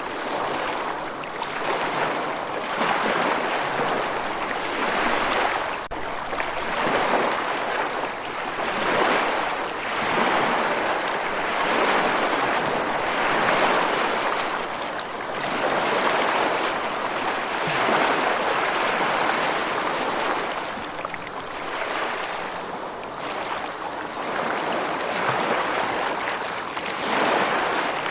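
Rushing water: a continuous wash of water that swells and eases every couple of seconds.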